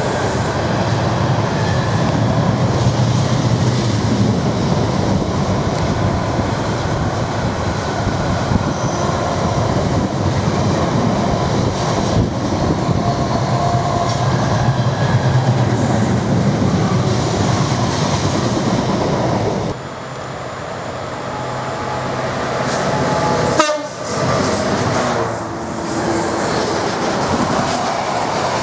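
Freight train passing at speed: a loud, continuous rumble of locomotive and wagons on the track, with a train horn sounding. The noise drops suddenly about two-thirds of the way through, breaks off abruptly a few seconds later, then resumes.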